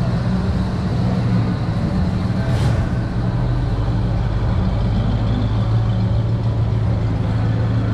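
Steady, loud low mechanical hum, with a brief hiss about two and a half seconds in.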